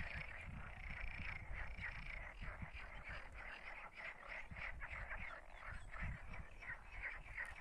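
A chorus of frogs croaking: many short, overlapping calls in a dense, continuous pattern.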